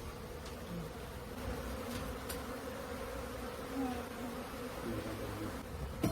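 Honeybees pouring out of a disturbed hive, buzzing in a steady drone, with single bees now and then flying close past. A sharp metallic knock right at the end.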